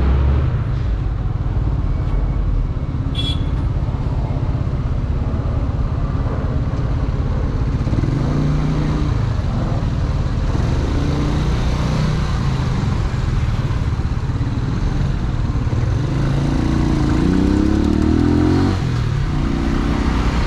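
AKT NKD 125 single-cylinder four-stroke motorcycle engine running under way. Near the end it rises in pitch as the bike accelerates, then drops abruptly at a gear change.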